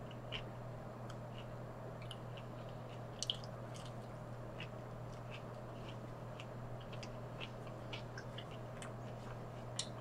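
A person chewing fried coconut shrimp: small scattered crunches and wet mouth clicks, the sharpest about three seconds in, over a steady low hum.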